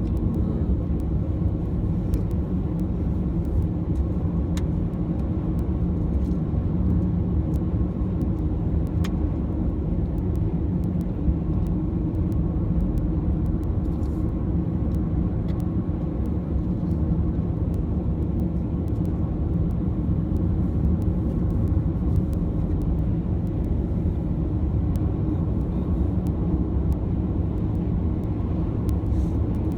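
Car driving at a steady pace, with a constant low rumble of road and engine noise.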